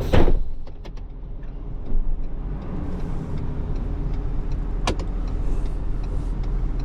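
Flatbed tow truck's engine running steadily, with a heavy thump at the start and a single sharp click about five seconds in.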